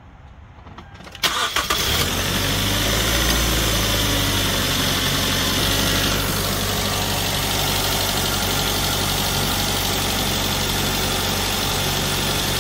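2010 Hyundai Sonata's 2.4-litre four-cylinder engine cranked and started about a second in. It runs a little higher for a few seconds, then settles into a steady idle, on a newly installed serpentine belt and tensioner.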